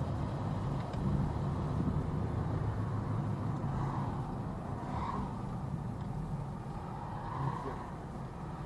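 A car driving, with steady engine and road noise as picked up by a dashcam.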